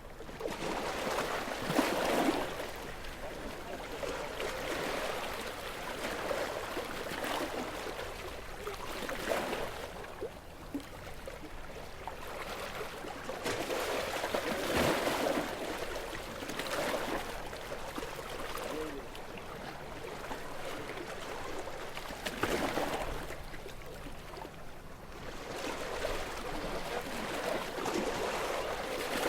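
Gentle sea waves washing on a shore, each wave swelling and falling back every few seconds, the biggest about 2, 15 and 22 seconds in.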